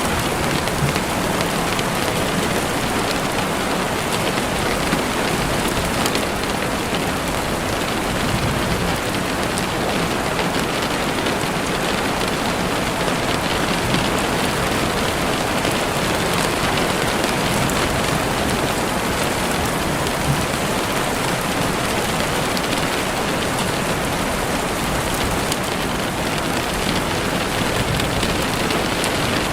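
Steady rain falling through trees, with a few faint sharp crackles of a campfire now and then.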